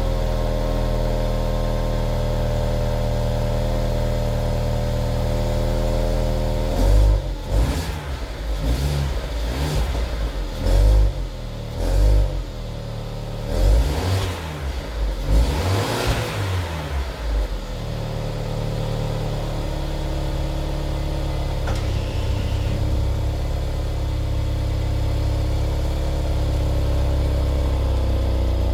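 2019 Mercedes-Benz GLA 250's 2.0-litre turbocharged four-cylinder idling after a cold start. About seven seconds in, a string of short revs rises and falls for roughly ten seconds, then it settles back to a steady idle.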